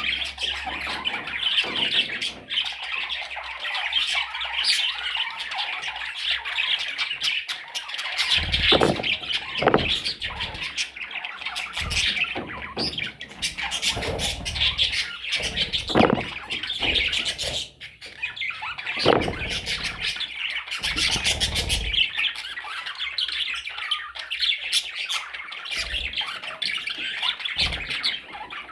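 Small parrots squawking and chattering continuously in dense, high-pitched calls, with a few dull thumps partway through.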